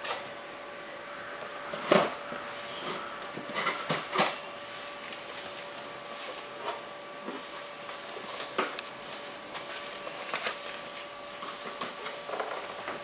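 A box being handled and opened: scattered knocks, scrapes and rustles, the loudest about 2 s in and around 4 s, over a faint steady hum.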